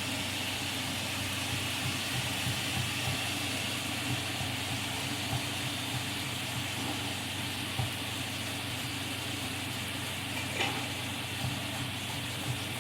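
Steady sizzling hiss of food frying in a pan, with scattered small pops and a low steady hum underneath.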